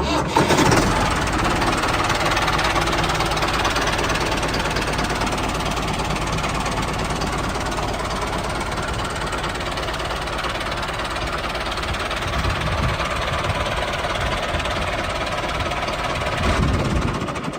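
Mini tractor with a rotary tiller running steadily, a rapid mechanical rattle.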